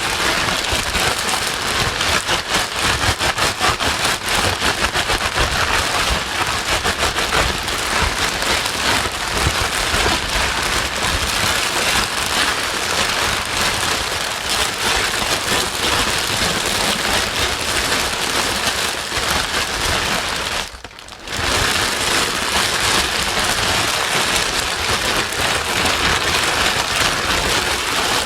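Continuous white noise: a dense, even hiss across all pitches with a fine crackle like rain on a surface. It drops out sharply for a moment about 21 seconds in, then resumes.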